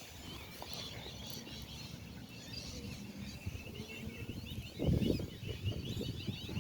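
Small birds chirping in rapid, repeated high twitters, with a brief low rumble about five seconds in.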